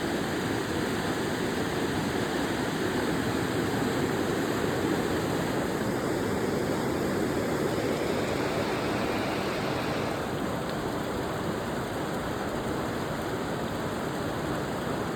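Steady rush of flowing water, an even hiss-like wash with no breaks.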